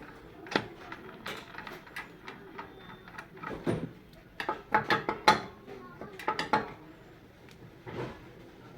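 A spanner clicking and clinking against metal as the bolts of a motorcycle engine cover are tightened: scattered sharp clicks, busiest about halfway through.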